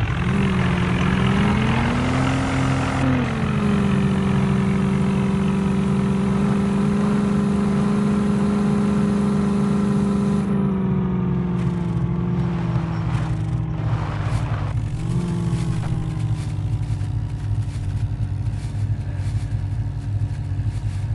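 HMT tractor's diesel engine running with a steady whine that rises and falls about two seconds in, then holds and eases lower in the second half, with a brief lift about fifteen seconds in. Clicks and rattles come through in the later part.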